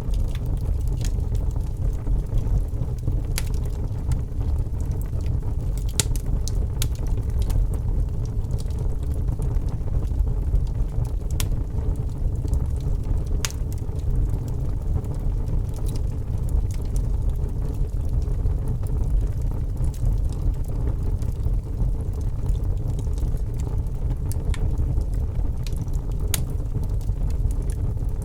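Wood burning in a fireplace: a steady low rumble of flames with scattered sharp crackles and pops from the logs.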